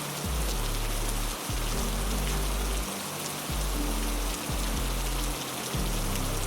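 Heavy rain falling steadily, an even hiss with scattered drop ticks. Underneath are low droning notes that change every second or so.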